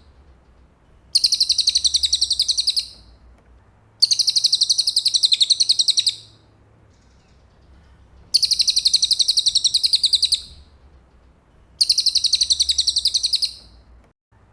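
Cililin bird singing: four bouts of a rapid, high-pitched trill of quickly repeated notes, each lasting about two seconds, with pauses of a second or two between them.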